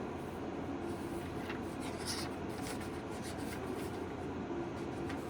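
Paper being handled, with faint rustling and a few soft clicks, over a steady room hum.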